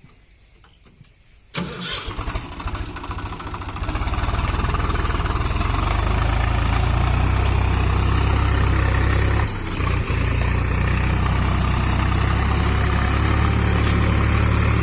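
Swaraj 735FE tractor's three-cylinder diesel engine starting about a second and a half in: it cranks and catches unevenly for a couple of seconds, then settles into a steady run.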